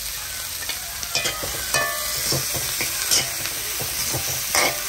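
Shallots and green chillies sizzling in hot oil in an aluminium kadai while being stirred, the spoon scraping and knocking against the pan several times from about a second in, loudest near the end.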